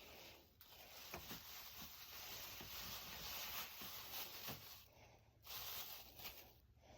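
Faint rustling and rubbing, with a few light ticks, that dies down about five seconds in.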